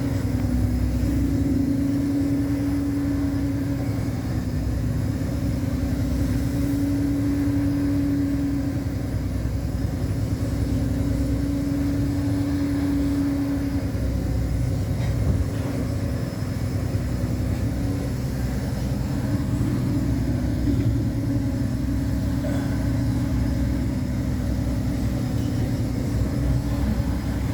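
Steel-hulled fishing boat's engine running steadily under way, a low drone with a hum that swells and fades every few seconds.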